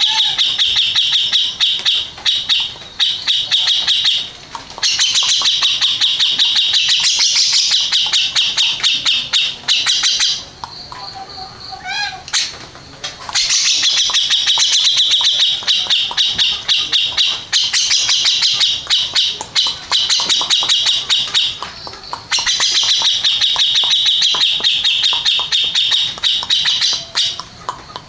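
Grey-cheeked bulbul (cucak jenggot) singing long, very rapid rolling trills of high notes, in runs of several seconds with brief breaks. About ten seconds in there is a quieter pause of two or three seconds with a softer gliding call, then the fast trilling resumes.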